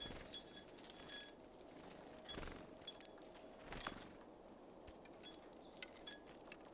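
Small birds at a feeder: faint scattered light clicks and taps, the loudest about four seconds in, with short high call notes.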